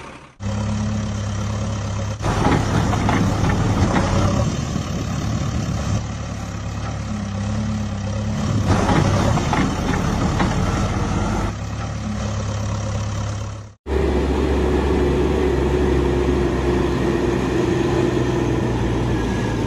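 An engine running steadily at idle, with rougher, noisier stretches in the first part; the sound cuts out abruptly for a moment about fourteen seconds in, then carries on steadily.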